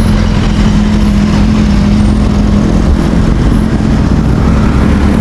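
Road traffic engine hum from passing motor vehicles, heard over heavy wind rumble on the microphone of a moving bicycle.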